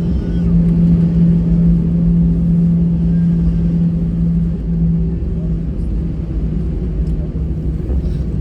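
Airbus A320-214's CFM56 jet engines heard from inside the passenger cabin: a steady low rumble with a constant hum running over it.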